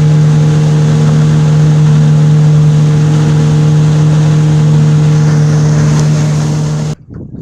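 Suzuki DT30 two-stroke outboard motor running loud and steady at a constant speed, cutting off abruptly about seven seconds in.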